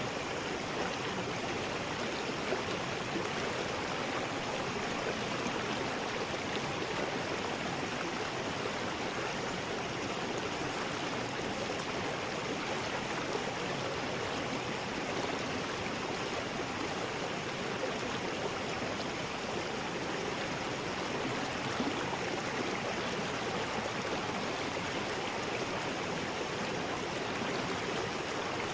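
River rapids rushing over rocks: a steady, even roar of moving water.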